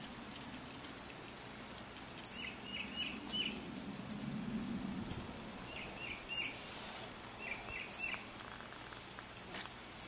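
Birds chirping: short, sharp, high calls about once or twice a second, with softer, lower chirps in between.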